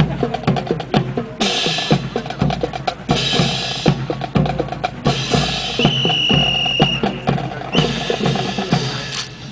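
Drum-heavy percussion with many sharp strokes and stretches of bright, cymbal-like hiss, accompanying a rifle drill display. A steady high tone is held for about a second around the middle, and the sound fades near the end.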